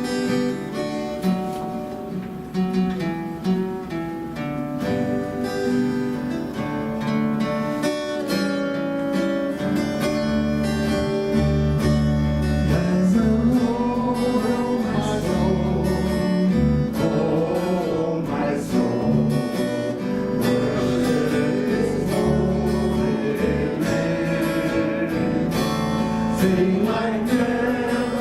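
Worship music: a strummed acoustic guitar plays an intro, and about halfway through a bass and a singing voice join in.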